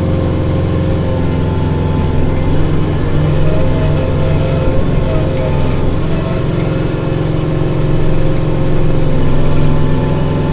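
Kubota diesel tractor engine running steadily under load while driving a rear-mounted snowblower, with a steady hum and higher whine from the blower.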